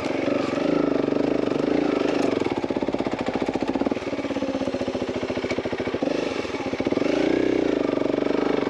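Honda CRF300L single-cylinder dual-sport engine running at low speed with rapid even firing pulses, easing off in the middle and picking up again about seven seconds in.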